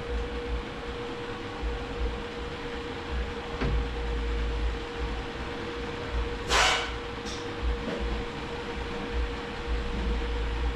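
Steady mechanical hum with a constant mid-pitched tone, and a brief sharp hiss about six and a half seconds in.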